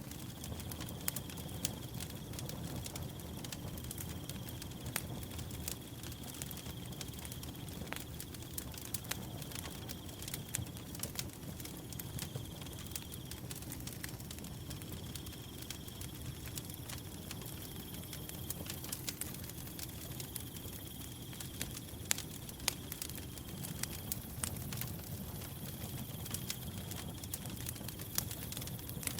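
Wood fire crackling, with frequent sharp pops over a low steady rumble. A cricket trills steadily at a high pitch in long stretches that break off briefly every few seconds.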